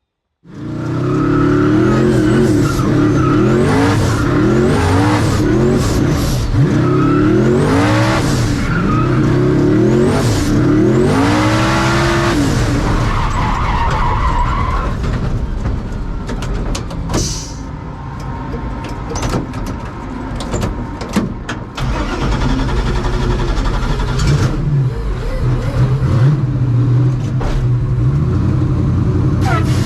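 Turbocharged V8 race car doing a burnout: the engine revs up and falls back again and again over the noise of spinning tyres for about the first half. It then settles to a lower, steadier run with scattered sharp cracks.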